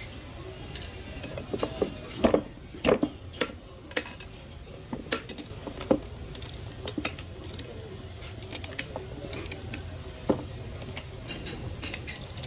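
Metal tools and parts clinking and knocking together in irregular, scattered strikes, as when a truck brake servo is worked on by hand, over a steady low hum.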